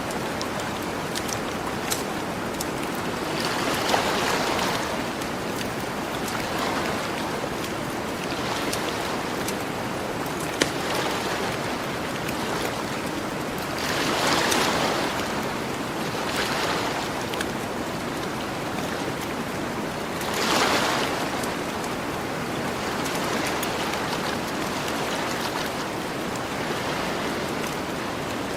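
Gentle ocean waves washing onto a beach over a steady hiss of surf, with three louder swells several seconds apart. Scattered pops and crackles of a campfire sound over the waves.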